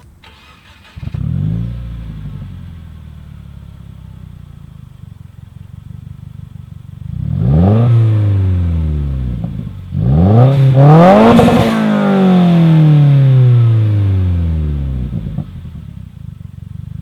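Turbocharged Subaru flat-four running through a SubiSpeed quad-tip catback exhaust. It starts about a second in and settles to a steady idle. It is then revved twice, the second rev higher and longer, each falling back to idle.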